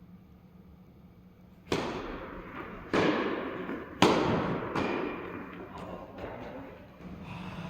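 Tennis ball struck by rackets and bouncing in a rally: a run of sharp echoing hits about a second apart, the loudest about four seconds in.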